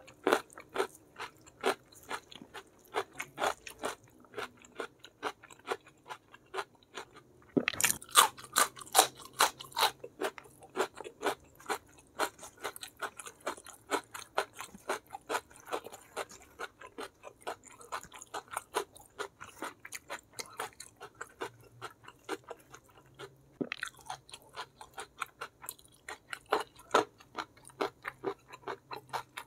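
Close-up eating sounds: rapid, steady chewing with crisp crunches and bites, louder for a few seconds near the start of the middle and again later on. The food is beef-foot kikil gnawed off the bone, eaten with fried chicken, rice and raw vegetables.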